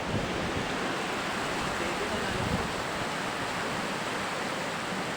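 Steady rushing roar of fast-flowing floodwater.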